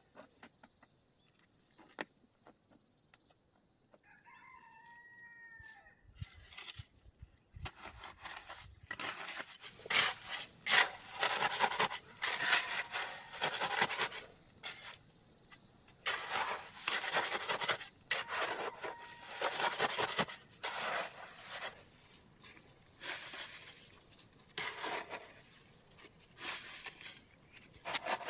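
A chicken calls once about four seconds in. From about six seconds on come repeated bursts of rustling, scraping noise, the loudest sound here.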